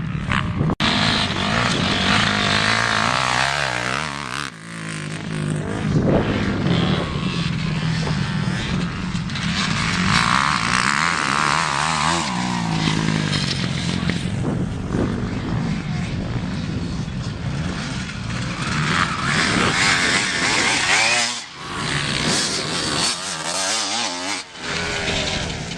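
Motocross bikes racing, their engines revving up and down under changing throttle, with the sound dropping away briefly a few times.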